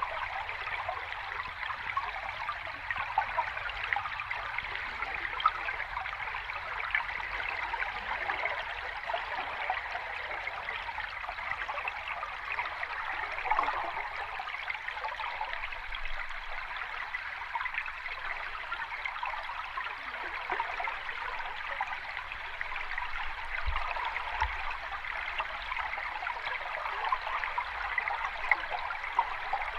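Steady rushing and trickling water, with small brief splashes scattered through it and no rise and fall of breaking waves.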